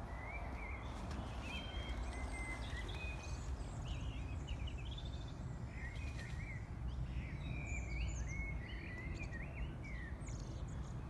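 Small songbirds singing, a near-continuous run of quick chirping, warbling phrases, over a steady low background rumble.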